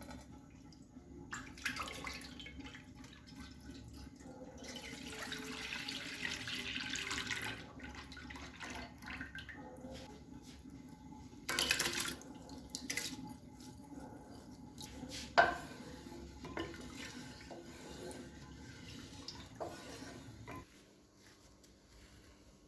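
Kitchen tap running into a sink, strongest for a few seconds near the start, with sharp clinks and knocks of dishes being handled, the loudest about halfway through. A steady low hum runs underneath and stops near the end.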